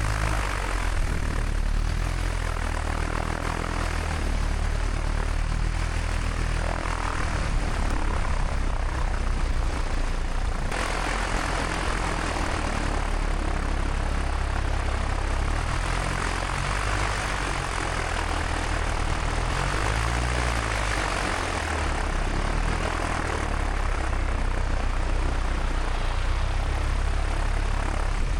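Light single-engine airplane's piston engine and propeller running steadily on the ground, with a low engine drone under a dense propeller and air noise that grows a little brighter about eleven seconds in.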